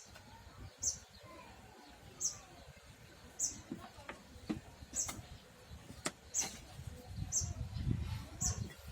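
A small bird chirping, one short high chirp about once a second, over light knocks and handling noise.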